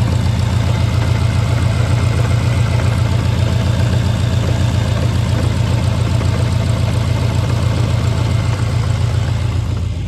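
Jaguar XJR's supercharged V8 idling steadily and evenly. It is running smoothly without the shake of a misfire, after a faulty cylinder 4 injector was moved.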